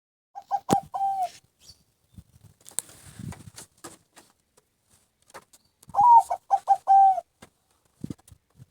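Kangean zebra dove (perkutut) cooing: two phrases of quick short coos, each ending in a longer held note, about a second in and again near six seconds. A brief rustle falls between them.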